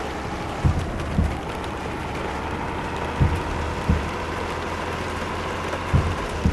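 Steady road and engine noise of a moving truck, with a low hum, broken about six times by short low thumps.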